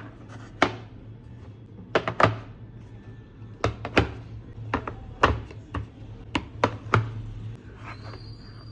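Snacks and containers being handled and set down during a restock: about a dozen sharp, irregular clacks and knocks, over a steady low hum.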